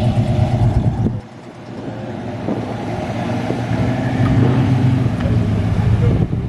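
Car engine running, cut off abruptly about a second in; then another vehicle's engine running and growing louder as it comes closer.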